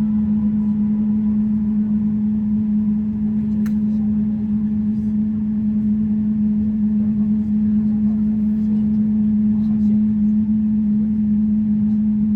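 Steady cabin hum of a Boeing 777-300ER on the ground, with one constant droning tone over a low rumble.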